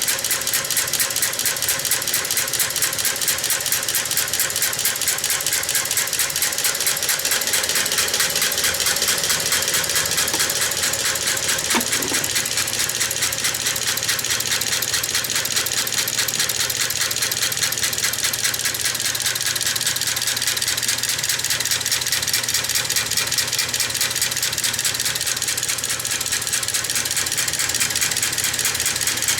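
1908 Matheson four-cylinder engine turned over by a belt-driven sewing machine motor, its make-and-break ignition mechanism and valve gear clattering in a fast, even rattle. No electrical power is applied, so the engine is not firing: this is the mechanical action only.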